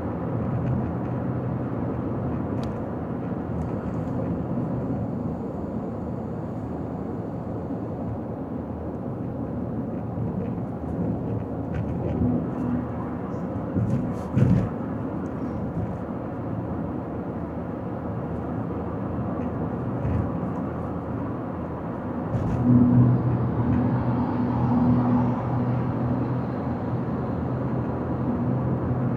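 Steady road and engine noise of a car driving on a highway, a low rumble with a faint hum. There is a short thump about fourteen seconds in, and the hum grows louder from about twenty-three seconds in.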